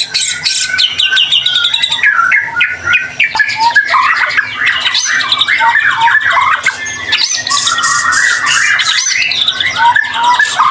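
White-rumped shama (murai batu) singing a loud, continuous, fast-changing song of whistles, quick rising and falling glides, and sharp clicking trills.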